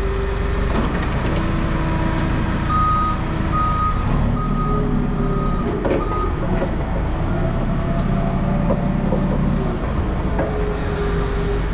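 Heavy vehicle's engine running steadily while its reversing alarm sounds a run of about five evenly spaced high beeps, starting about three seconds in.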